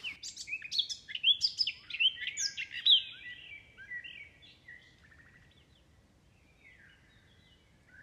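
A songbird singing a rapid run of varied chirps and whistles. It is densest for the first few seconds, thins out, and goes quiet about five seconds in.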